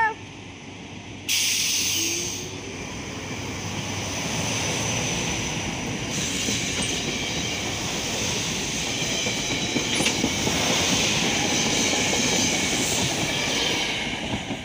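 SEPTA electric commuter train passing close at speed: a steady rush and rumble of wheels on rail with repeated clicks of clickety-clack, loudest in the last few seconds. A brief horn note cuts off right at the start.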